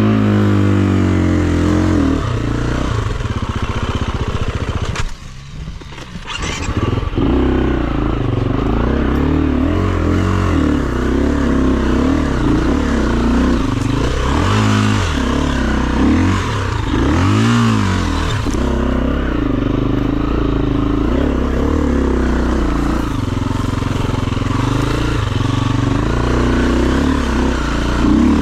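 KTM enduro dirt bike engine being ridden off-road, its revs rising and falling with the throttle. The engine note drops away briefly about five seconds in, then picks up again, with several quick rev sweeps later on.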